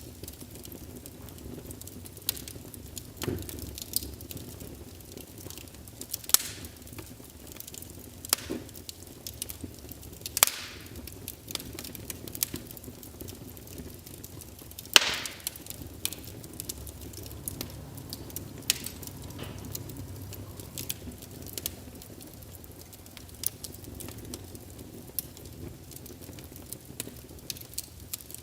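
Log fire in a fireplace crackling: irregular sharp pops and snaps over a steady low rumble of flames, with one louder pop about halfway through.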